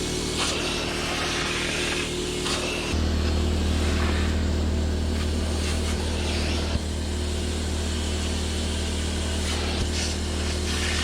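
A cleaning machine's electric motor running with a steady hum that gets louder about three seconds in, with a few short hissing swishes over it.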